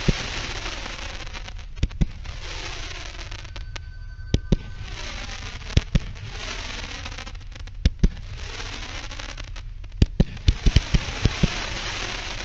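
Consumer firework cake going off: repeated waves of dense crackling, each lasting a couple of seconds, with sharp bangs scattered through and a quick cluster of them near the end.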